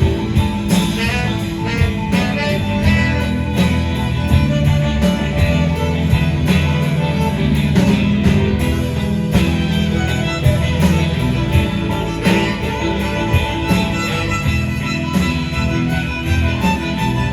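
Live band playing an instrumental break with no vocals, over a steady drum beat.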